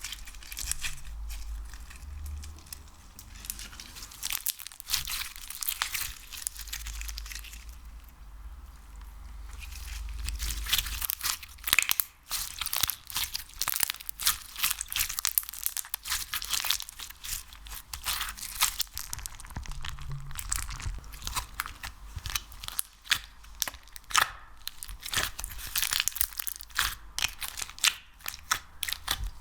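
Slime or wax worked by hand close to the microphone: sticky crackling, popping and tearing sounds in quick, dense clicks, getting busier and louder about a third of the way in.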